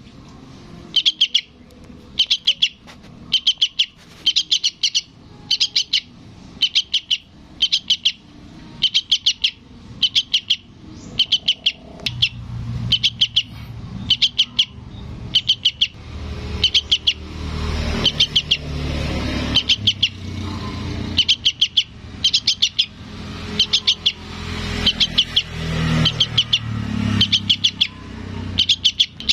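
Juvenile sooty-headed bulbul (trucukan) calling for its parent: short bursts of rapid high chirps, about one burst a second, repeated over and over. A passing vehicle's low rumble rises under the calls in the second half.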